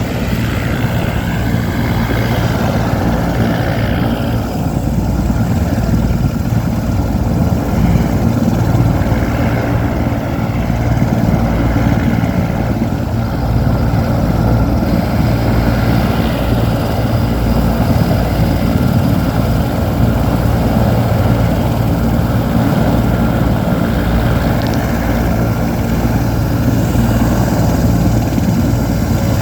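Sikorsky S-64 Skycrane helicopter with its twin turboshaft engines running: a loud, steady, low rumble from the rotors and engines, with a thin steady high tone above it.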